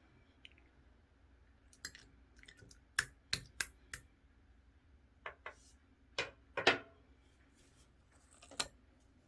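Yellow clear slime being handled: scattered sticky clicks and pops, about a dozen, with the loudest a little past halfway.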